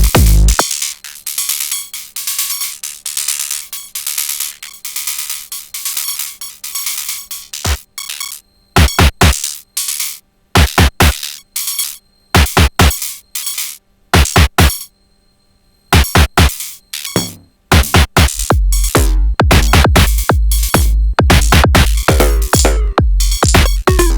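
Sonic Potions LXR-02 drum machine playing a techno pattern. The kick drops out about half a second in, leaving hi-hats and percussion; from about eight seconds only sparse, separated hits play, with a brief silence, before the full kick-driven groove comes back about two-thirds of the way through.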